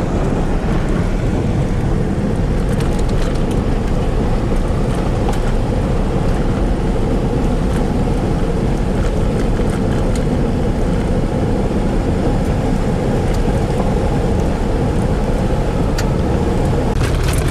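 Steady low rumble of a vehicle driving, heard from the inside, with a few faint scattered ticks.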